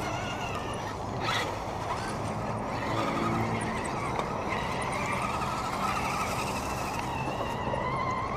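Electric motors and gears of radio-controlled scale crawler trucks whining, the pitch wavering up and down with the throttle, with a short sharp knock about a second in.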